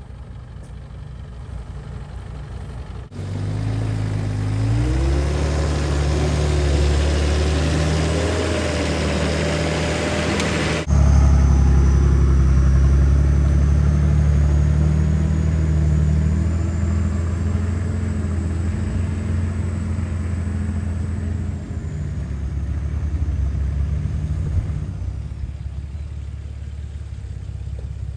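Four-wheel-drive engine working at low speed on rough track, the revs climbing about four seconds in and held under load. The sound jumps abruptly twice early on where the footage is cut, and in the later part a thin high whine sits over the engine.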